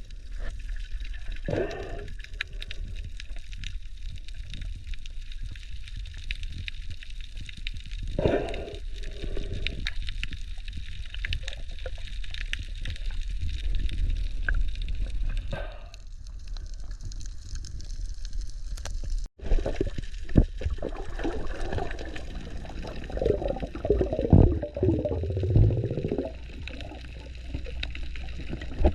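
Underwater sound picked up by a diving camera: a muffled steady rush of water with gurgling bubble surges now and then. It breaks off abruptly about two-thirds of the way through and picks up again.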